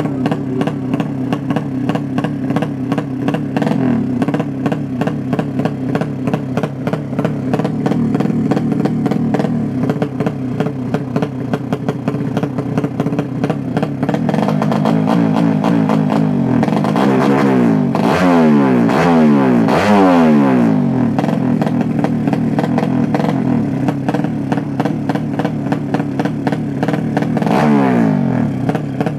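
Motorcycle engines running steadily, then revved up and down several times in quick succession midway through and once more near the end.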